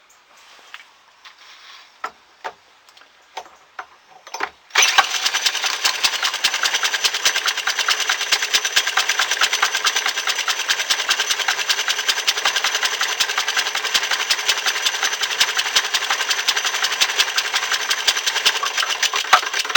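A few scattered clicks and knocks, then about five seconds in a small early Leek gas engine, a four-stroke running on propane with glow-plug ignition, suddenly catches and runs with a fast, even, loud beat. It stops just before the end.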